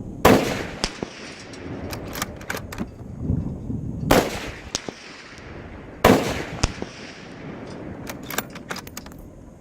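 Three rifle shots, the second about four seconds after the first and the third two seconds later, each trailing off in an echo. About half a second after each shot comes a fainter sharp crack, the bullet striking the hanging cast iron pan target.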